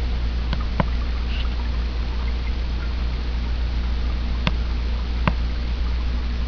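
Water running steadily down a three-tier reptile-enclosure waterfall, over a low constant hum, with four brief clicks.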